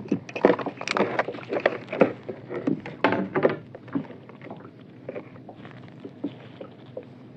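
Irregular knocks and clatter against a kayak's hull and deck: a fish and fishing tackle being handled aboard. The knocks come thick and fast at first, then thin out to the odd tap.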